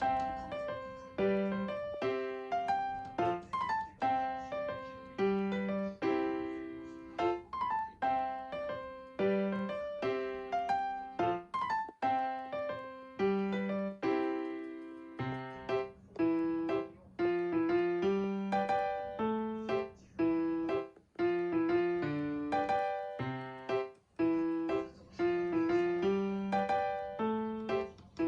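Background piano music: a light melody of struck notes, each fading after its attack.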